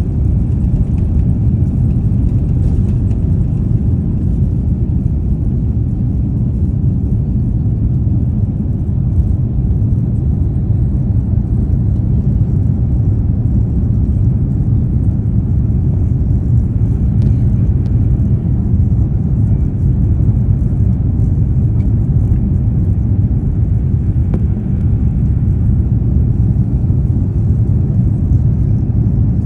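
Airbus A350-900 jet airliner's engines and airflow making a loud, steady low rumble, as heard from inside the cabin during takeoff.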